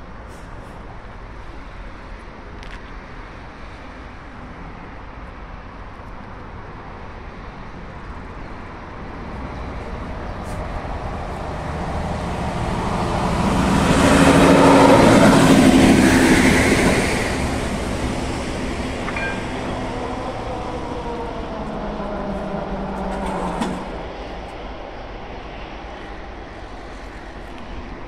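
Small red vintage railcar passing over the crossing: its running and wheel noise build up, peak about halfway through, then fade as it moves away.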